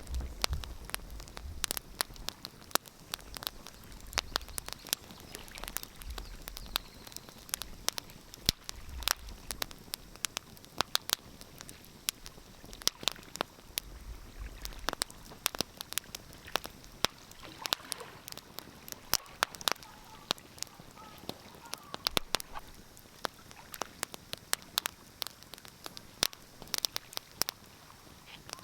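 Wood fire crackling, with frequent irregular sharp pops and snaps over a soft hiss, and a few low rumbles in the first half.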